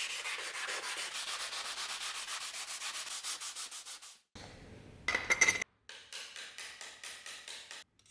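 Quick back-and-forth hand-sanding strokes, about five a second, stopping at edits. About five seconds in there is a short, louder clatter, and then the sanding strokes start again.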